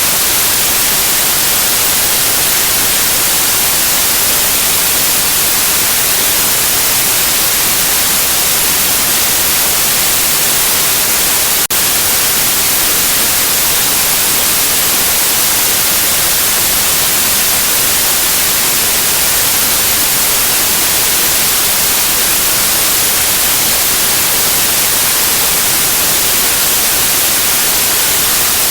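Steady white noise: an even, unchanging hiss, strongest in the high end, played as a sleep sound for a baby. A single faint click breaks it briefly near the middle.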